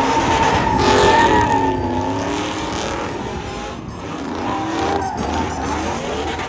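A truck doing a burnout: the engine revving hard, its pitch wavering up and down, with tyres squealing loudest in the first couple of seconds.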